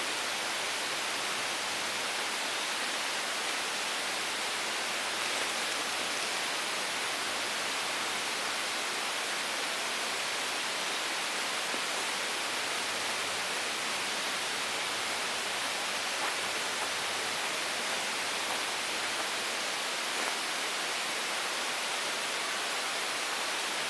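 A steady, even hiss that holds at one level throughout.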